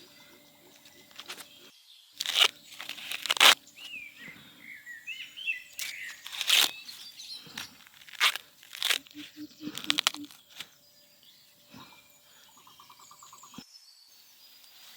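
Bursts of crunching, tearing handling noise in several clusters, with a few bird chirps about four seconds in.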